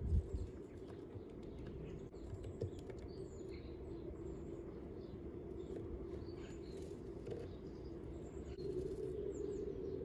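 Scattered faint chirps of small garden birds over a steady low hum, with a brief low thump right at the start.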